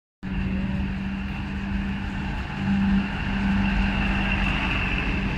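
A DEMU train's diesel power car passes close with a steady engine drone, loudest about three seconds in, over the rumble of the coaches rolling by. A steady high-pitched squeal from the running gear comes from the train slowing into the platform.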